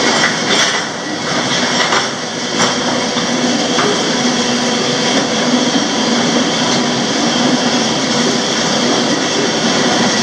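Freight train running at speed, heard from the end platform of a covered hopper car: a loud, steady rumble and rattle of steel wheels on rail with a few steady ringing tones through it. There are several sharp metallic clanks in the first three seconds.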